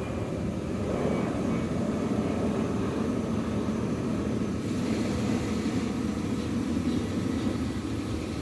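Airliner's engines, a steady low rumble as the aircraft flies near the airport.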